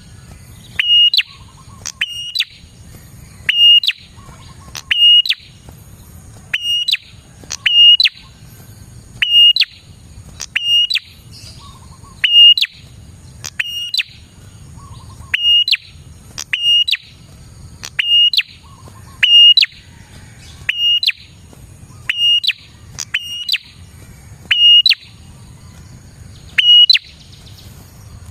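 Prenjak (prinia) calling vigorously over and over: short, sharp, high calls in quick doubles, repeating about every second and a half.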